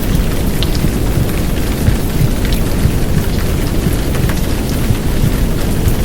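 Heavy downpour rain with scattered drop ticks over a steady, deep, rumbling wash of womb-sound and white noise.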